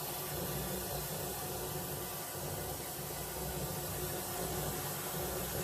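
Kärcher pressure washer running steadily, a continuous hiss of the high-pressure water jet over the motor's steady hum, as it flushes a drain pipe with a pipe-cleaning hose.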